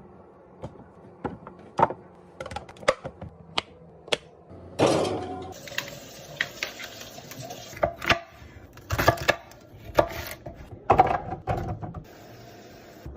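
Containers and food items being handled and set down while a fridge is restocked: a series of separate clicks and knocks, with a longer rustle or scrape about five seconds in.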